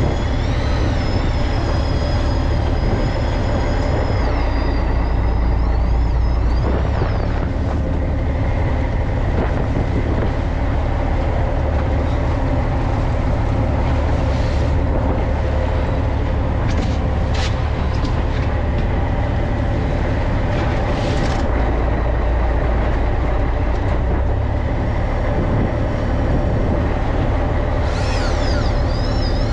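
A fishing boat's engine running steadily with a constant low drone. A thin high whine sits over it near the start, shifting in pitch a few seconds in, and comes back near the end.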